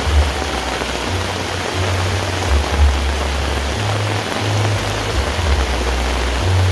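Heavy rain falling steadily on surfaces, a dense even hiss, with a low rumble underneath that comes and goes every second or so.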